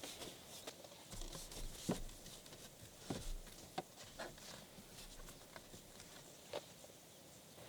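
Faint, irregular light taps and clicks, about one a second, over a soft steady hiss.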